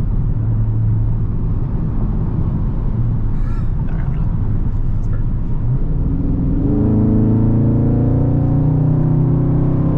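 Straight-piped Dodge Scat Pack's 6.4-litre HEMI V8 exhaust droning at a steady cruise, then getting louder and rising slowly in pitch under acceleration about two-thirds of the way in.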